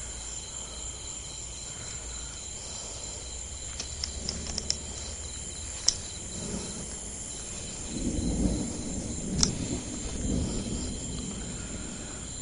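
Steady night chorus of crickets and other insects, with a low rumble of distant rolling thunder coming in about eight seconds in and lasting a few seconds. A few faint clicks are scattered through the middle.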